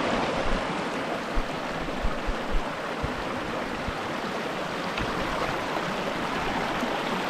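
Mountain creek rushing over rocks, a steady water sound, with a few low bumps in the first three seconds.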